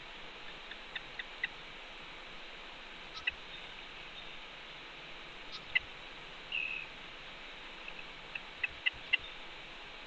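Short, high bird chirps, single and in quick runs a few seconds apart, with one brief downward-slurred call about six and a half seconds in, over a steady hiss.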